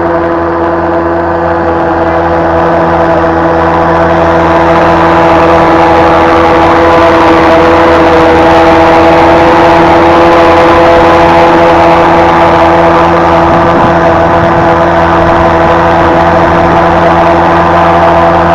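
Vikhr two-stroke outboard motor with a water-jet attachment running steadily under way, growing a little louder over the first few seconds, then holding an even note.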